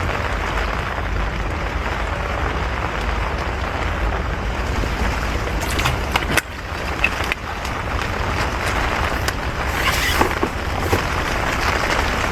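Strong wind buffeting a tent, with rain on it and a steady low wind rumble on the microphone. A few sharp taps and rattles come through, about halfway and again near the end.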